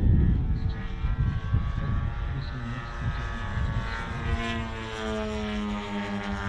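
Petrol engines of large-scale radio-controlled Pitts Special model biplanes buzzing through aerobatics. Their pitch rises and falls as the planes manoeuvre and pass, and one engine's note slides down in the second half.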